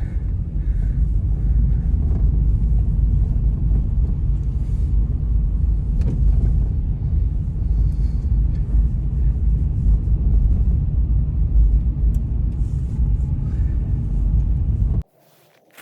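Blizzard wind buffeting the microphone: a loud, steady low rumble that cuts off suddenly near the end.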